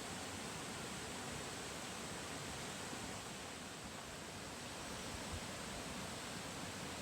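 Mountain stream rushing over its rocky bed: a steady, even rush of water.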